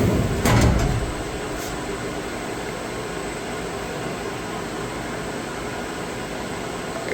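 Steady mechanical hum of a running machine, with a brief louder clatter about half a second in.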